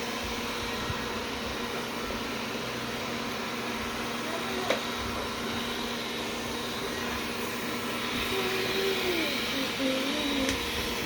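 Wyze robot vacuum running steadily with a hum and hiss from its motor and brushes. There is a single sharp click about halfway through.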